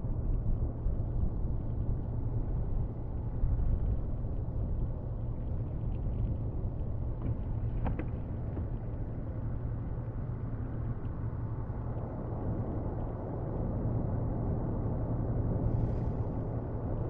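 Snow-plow truck's engine running with a steady low rumble.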